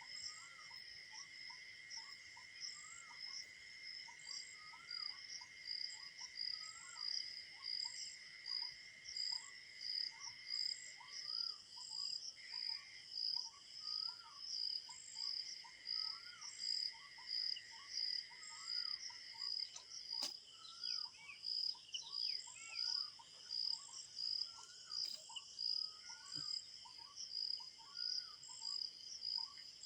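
Crickets chirping in a steady pulsing rhythm, a little over one pulse a second, over a constant high insect trill, with short repeated chirping calls of birds running underneath throughout.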